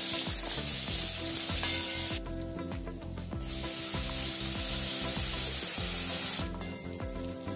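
Cashews and then raisins hit hot oil in a kadai and sizzle. A loud sizzle as the cashews go in dies down after about two seconds. A second burst of sizzling starts when the raisins are added, about three and a half seconds in, and falls away near the end.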